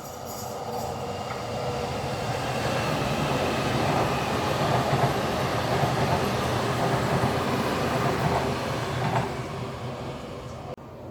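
Train running past on the rails: a steady noise of wheels and machinery that builds over the first few seconds and eases off near the end, then cuts off abruptly.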